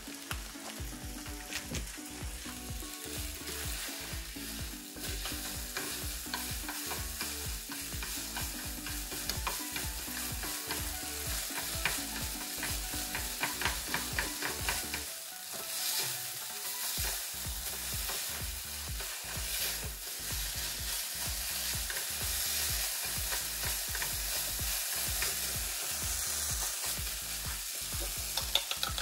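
Food sizzling as it fries in a pan, with stirring in the pan.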